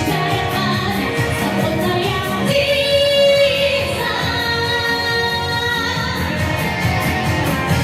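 A female vocalist sings a pop ballad over instrumental backing, holding one long note about two and a half seconds in.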